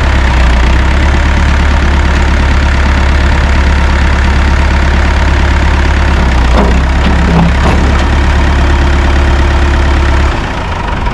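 Large truck engine idling steadily with a heavy low drone, cutting off abruptly near the end.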